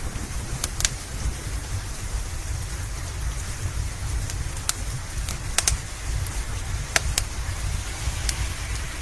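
Steady rain hiss over a low rumble, with a wood fire crackling: about eight sharp pops scattered through, a few close together.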